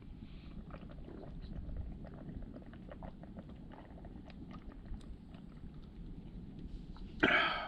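Faint chewing of a protein bar: scattered small wet clicks over a low rumble, with a short voice sound near the end.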